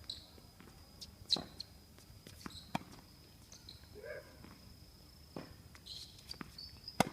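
Tennis ball being hit back and forth in a rally: a few sharp hits and bounces, some about a second and a half apart, the loudest near the end. A thin steady high tone runs underneath.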